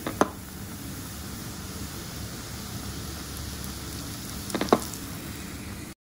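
Flour-battered dory fish fillet sizzling steadily as it fries in oil over medium heat, with a sharp click just after the start and a quick cluster of clicks about four and a half seconds in. The sound cuts off suddenly just before the end.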